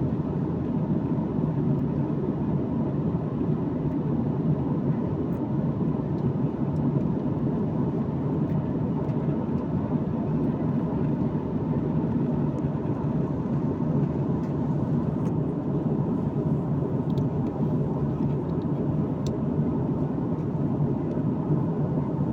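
Steady airliner cabin noise: the low, even rumble of the engines and airflow heard from inside the passenger cabin.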